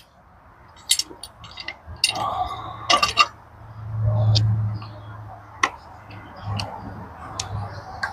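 Scattered knocks and clicks of wooden boards and tools being handled during gate framing, with a low hum that swells and fades about four seconds in.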